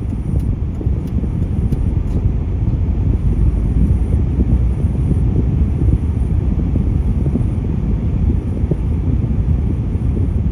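Excavator's diesel engine running: a steady low rumble.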